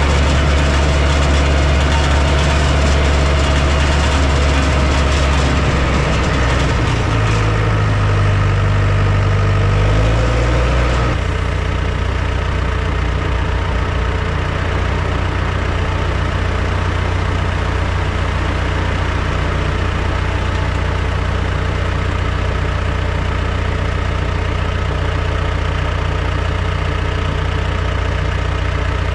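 Diesel engine of heavy construction machinery running. Its note shifts about seven seconds in, then drops about eleven seconds in to a lower, steady run.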